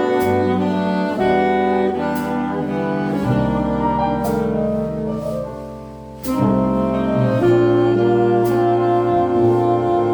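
A jazz octet plays live: saxophones and brass in harmony over piano, double bass and drums, with cymbal strokes keeping time. About six seconds in the band thins out and drops in level, then comes back in loudly with a cymbal hit.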